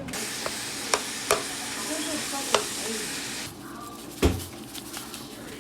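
Ground beef sizzling in a frying pan, with a few sharp clicks of a utensil against the pan. The sizzle cuts off about three and a half seconds in, and a single heavy thump follows.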